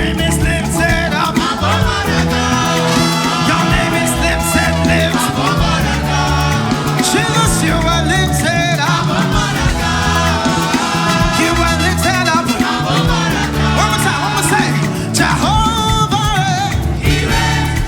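Live upbeat praise and worship music: a band with a steady bass line and percussion, with voices singing along.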